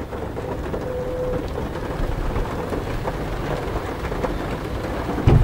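Steady rain drumming on the car's roof and glass, heard from inside the cabin with the engine off, and a single thump near the end.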